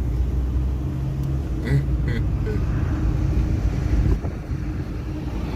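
Steady low rumble of a motor vehicle's engine running close by, with faint voices in the background.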